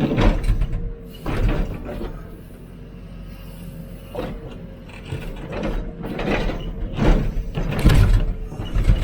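Hidromek 102B backhoe loader digging: the diesel engine runs steadily under repeated rough crunching and scraping as the bucket works through the ground, several strokes a few seconds apart, the loudest near the end.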